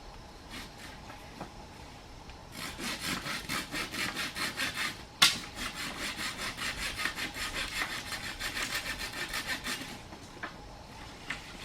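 Hand saw cutting wood in quick, even strokes, about four a second, starting a couple of seconds in and stopping near the end. A single sharp knock comes about halfway through, just after a brief break in the strokes.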